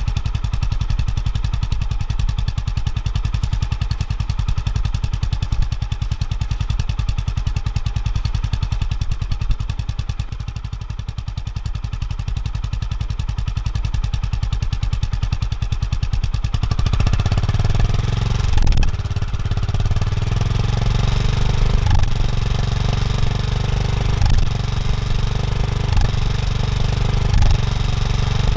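Honda GB350S air-cooled single-cylinder engine running through its stock muffler: a steady low idle thump, then about two-thirds through the note steps up, louder and fuller, as the revs rise.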